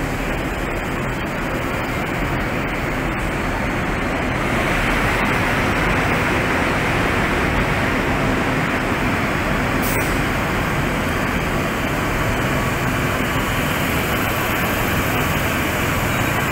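Double-deck Sydney Trains electric trains moving through a covered station platform: a steady rumble of wheels and traction motors that grows louder from about four and a half seconds in, with one sharp click near ten seconds.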